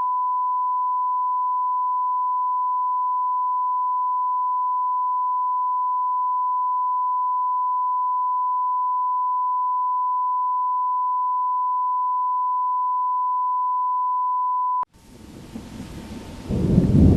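A steady 1 kHz sine test tone, one unwavering beep, that cuts off suddenly about 15 seconds in. Rain noise then fades in and builds to a loud low rumble of thunder near the end.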